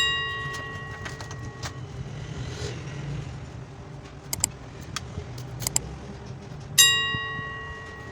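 Two sharp metallic clinks, one at the start and another near the end, each ringing on for about a second and a half, like a metal tool struck against or set down on metal. Between them come a few light clicks of handling, over a low steady hum.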